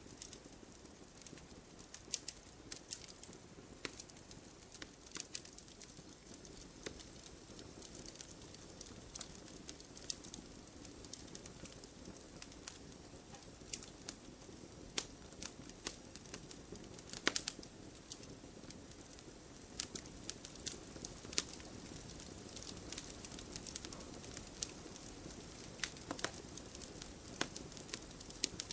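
Wood fire burning: a steady soft hiss with scattered sharp crackles and pops from the burning wood, and a few louder pops a little past the middle.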